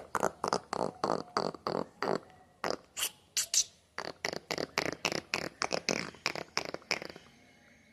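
A person imitating a bird's guttural calls by mouth: a rapid run of short clicking, chirping sounds, several a second, broken by brief pauses and stopping shortly before the end.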